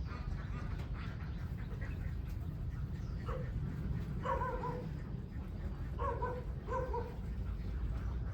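Short, high animal calls, four of them spaced a second or two apart, over a steady low rumble.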